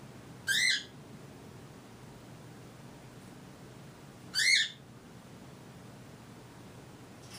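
Cockatiel calling: two short, loud chirps about four seconds apart, each rising and then falling in pitch.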